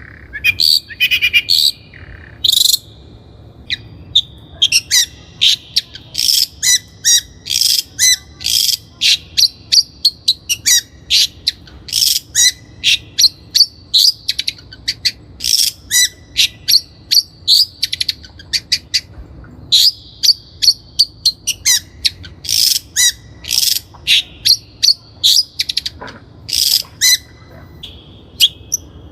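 Long-tailed shrike (cendet) singing: rapid strings of short, sharp, high chattering notes in bursts, broken by brief pauses.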